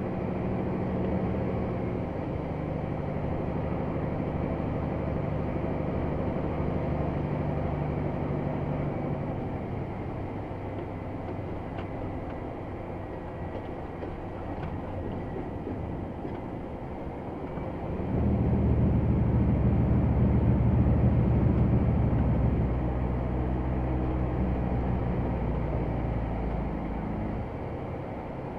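Scania XT G500 8x8 truck's six-cylinder diesel running steadily under a full load, its pitch shifting a couple of seconds in and easing off around ten seconds in. From about eighteen seconds it runs clearly louder for some four seconds as it pulls harder, then settles back.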